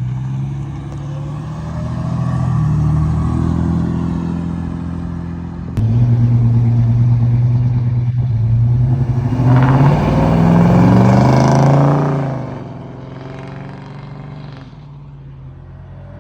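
Car engines running as cars drive off. About six seconds in a louder engine comes in, revs up with a rising pitch a few seconds later, then fades as the car pulls away.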